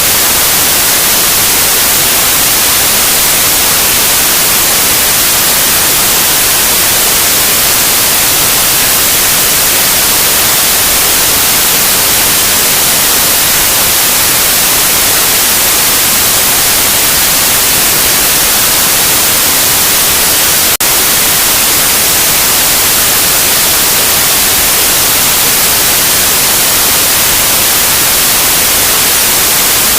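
Loud, steady white noise: an even, unchanging hiss across the whole range, strongest in the treble, with a single brief glitch about two-thirds of the way through.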